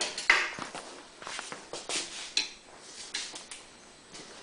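A scattered series of light clicks, taps and clinks as tools and engine parts are handled during work on a generator engine.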